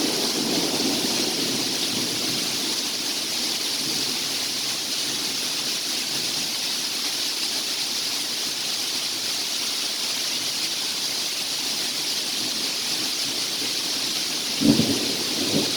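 Heavy rain during a thunderstorm, a steady hiss. A low rumble of thunder dies away at the start, and two short sharp cracks come near the end.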